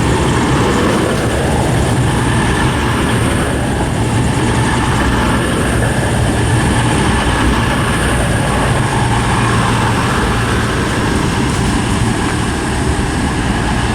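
Diesel passenger train engines running with a steady, loud drone at a station platform.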